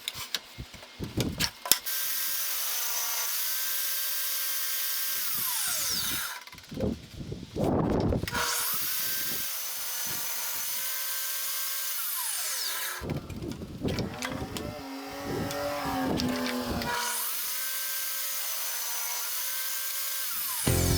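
Table saw ripping thin strips of wood three times. Each run starts with the blade spinning up, holds a steady whine through the cut, then winds down.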